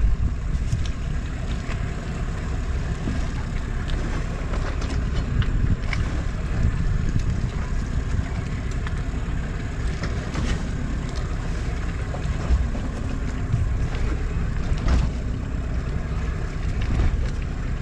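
Wind buffeting the microphone aboard a sailboat under way, as a steady low rumble with scattered light knocks and clicks.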